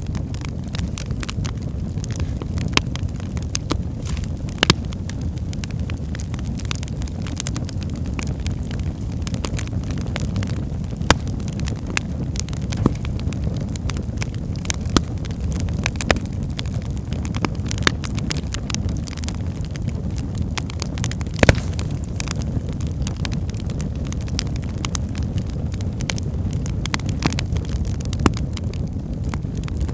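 Wood fire burning in a fireplace: a steady low rumble of flames with frequent sharp crackles and pops from the logs, one louder pop about two-thirds of the way through.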